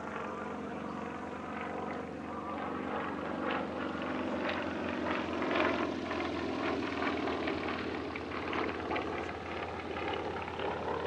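Yak-50 aerobatic aircraft's nine-cylinder M-14P radial engine and propeller running steadily in flight.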